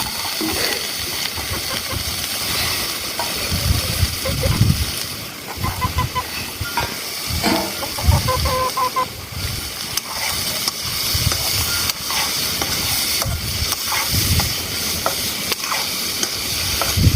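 Food sizzling in a hot pan: a steady hiss with dull knocks and stirring every second or two.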